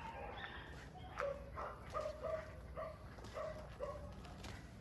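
A dog barking at some distance: a run of short barks, about two a second, starting about a second in.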